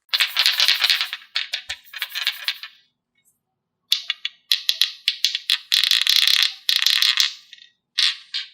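Rattling, clinking clatter of small hard objects in three bursts, the longest in the middle, with silent gaps between them.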